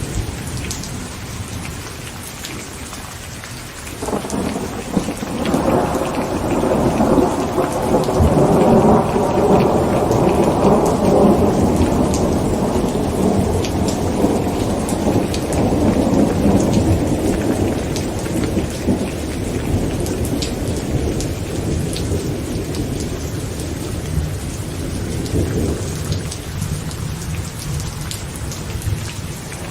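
Heavy rain falling on a tent, the individual drops ticking over a steady hiss. A long rolling thunder rumble builds about four seconds in, peaks and slowly dies away over some twenty seconds, and another roll begins right at the end.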